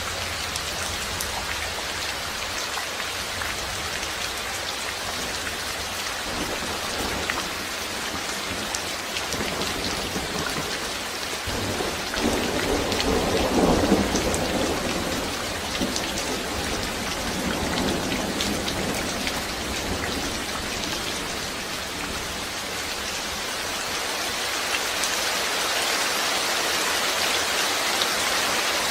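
Steady rain falling, with a low rumble of thunder that swells about twelve seconds in, peaks and dies away over about four seconds. The rain grows a little louder near the end.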